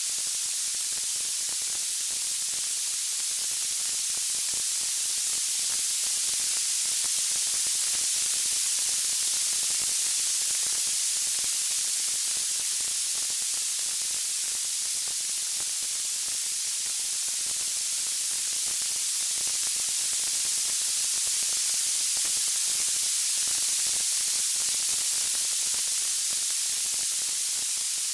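Steady white-noise hiss, strongest in the high end, slowly swelling and easing in level, with no distinct crackles or pops.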